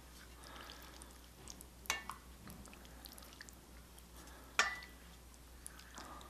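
A spoon knocks against a soup bowl twice, each time with a short ringing clink. Between the knocks are soft liquid sounds of soup being stirred.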